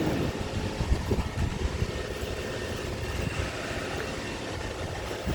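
Construction machinery running, a steady engine rumble with a few faint knocks; a held machine whine stops just after the start.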